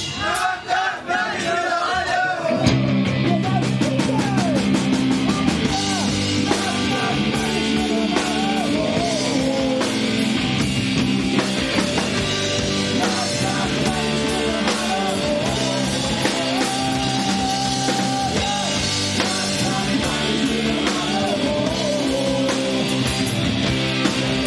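Live rock band playing with singing. For the first two seconds voices sing almost alone, then drums, bass and guitars come in and the band plays on at a steady level.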